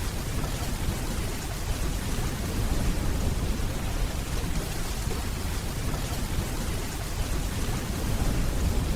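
Steady rainfall with a low rumble of distant thunder underneath, swelling slightly near the end.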